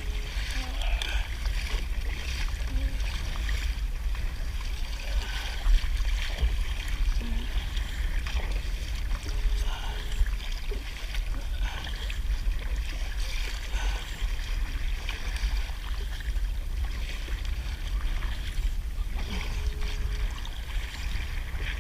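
Water lapping and splashing against a kayak on open sea, with scattered small splashes over a steady low rumble.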